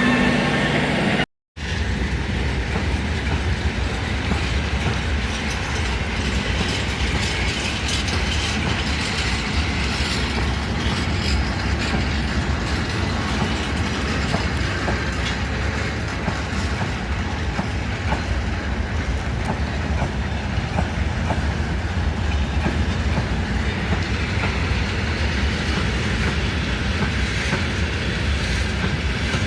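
Freight train wagons rolling past: a steady rumbling and rushing noise with faint wheel clicks over the rail joints. The sound cuts out completely for a moment about a second in.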